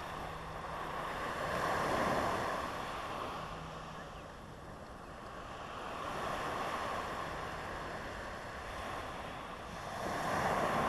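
Ocean surf breaking and washing up the beach, swelling and fading in slow surges about every four seconds.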